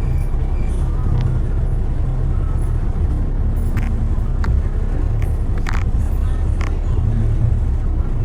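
Road traffic in a busy city street: a steady low rumble of passing vehicles, with a few short sharp clicks or taps near the middle.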